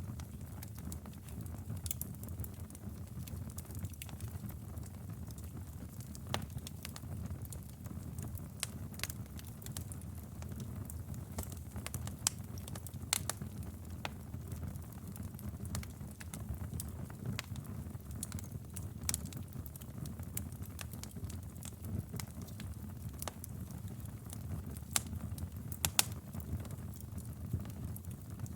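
Wood fire burning: a steady low rumble of the flames with irregular sharp crackles and pops from the burning wood, a few of them louder snaps.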